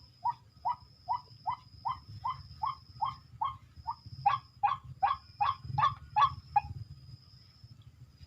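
A bird calling with a long run of short, evenly spaced notes, about two or three a second, getting louder about four seconds in and stopping shortly before the end. A high thin steady tone comes and goes behind it.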